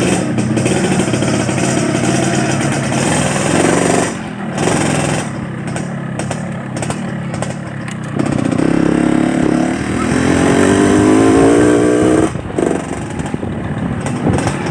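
Yamaha RX-King's 135 cc two-stroke single-cylinder engine running. The revs ease off around 4 seconds in, then climb steadily from about 8 seconds to 12 seconds, and drop off sharply.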